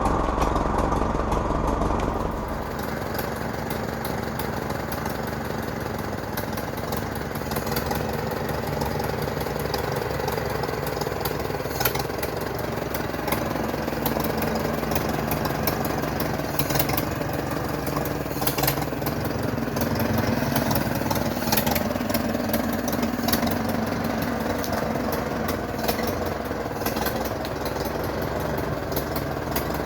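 Farmall H tractor's four-cylinder petrol/paraffin engine running steadily, dropping a little in level about two seconds in.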